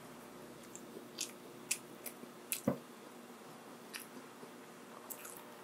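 Close-miked eating: a person chewing and biting food, with irregular sharp wet mouth clicks and smacks, the loudest a little before halfway through.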